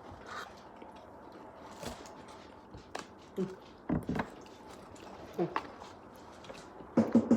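Close-up chewing of a mouthful of crispy chicken sandwich topped with French fries: irregular short crunches and mouth smacks, with a louder burst near the end.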